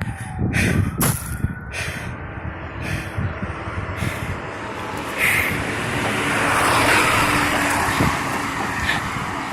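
A heavy road vehicle driving past, its engine and tyre noise swelling to a peak about seven seconds in and then easing off.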